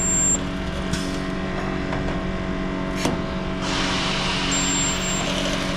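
A resistance spot welder runs with a steady mechanical hum, with a few sharp clicks. A hiss joins in from about three and a half seconds in and stops about two seconds later.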